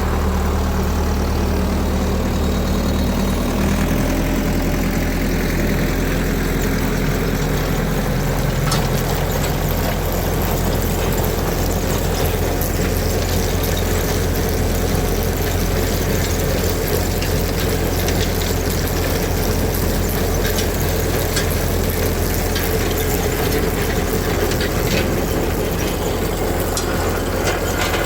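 An engine running steadily, its low note shifting slightly about four seconds in.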